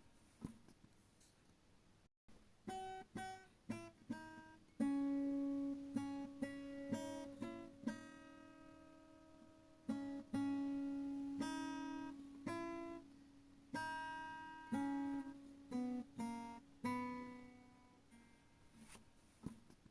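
Background music on acoustic guitar: single plucked notes and short phrases, each ringing out and fading, with a brief break about two seconds in.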